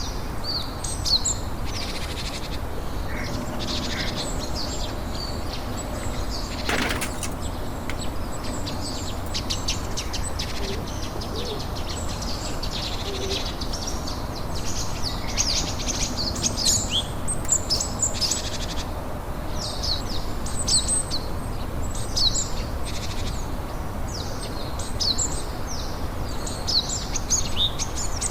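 Many small birds chirping: dense, short, high calls overlapping throughout, over a steady low background rumble.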